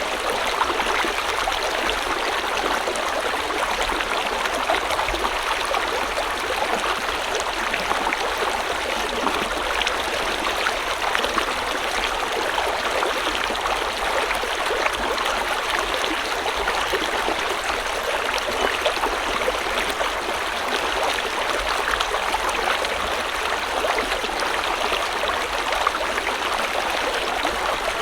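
Water of a small river or stream flowing over rocks: a steady, even rush with fine splashing and bubbling.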